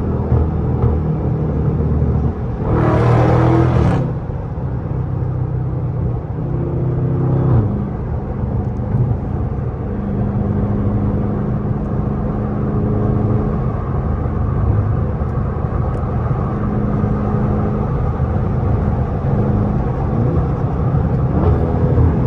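392 HEMI V8 running under way with a steady low drone, surging louder about three seconds in and again near the end as it is pushed harder.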